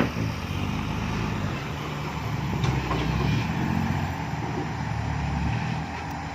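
Six-wheel dump truck's diesel engine running hard and steady as the loaded truck labours up a sticky clay slope, with small swells in revs.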